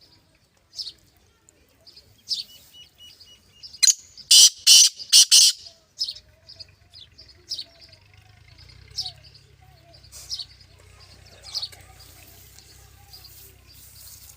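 Black francolin calling: a loud, harsh series of four or five grating notes about four seconds in, among short high bird chirps repeated every second or so.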